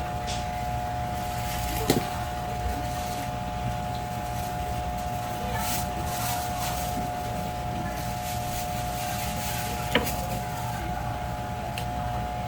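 A steady hum of a few fixed tones with low rumble underneath, broken by two short sharp knocks, about two seconds in and again about ten seconds in.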